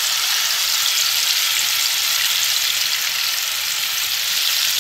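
Red chilli and garlic paste frying in hot oil in a wok, a loud, steady sizzle as the wet paste hits the oil.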